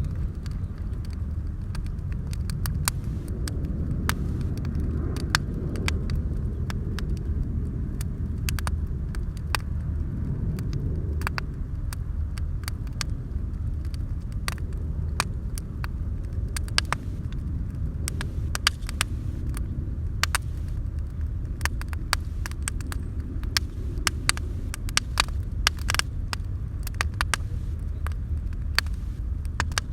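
Wood bonfire crackling, with frequent sharp irregular pops over a steady low rumble.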